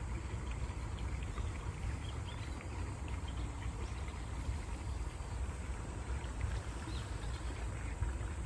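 A stream of water flowing steadily, with many small splashes and trickles over a low rumble.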